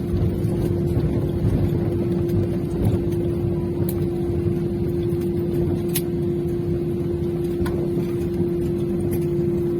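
Steady engine drone with a constant hum and low rumble, as heard inside a passenger aircraft cabin, with a few faint clicks.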